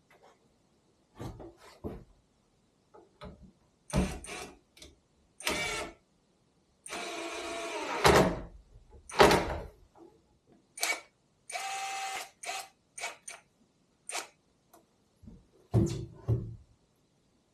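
A series of separate knocks and thuds from objects being handled, with two longer pitched scraping sounds about a third and two thirds of the way through.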